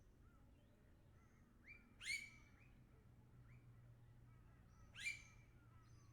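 Wild birds calling: two loud, sharp upward-sweeping calls about three seconds apart, with faint short chirps from other birds around them. A faint steady low hum lies underneath.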